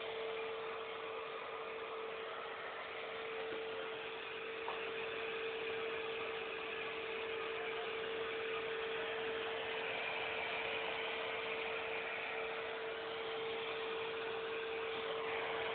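Vacuum cleaner running steadily: a constant motor whine over an even hiss of rushing air.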